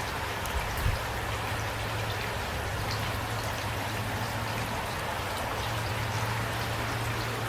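Steady rain falling, with individual drops ticking over an even hiss and a low steady rumble underneath; a short low thump just under a second in.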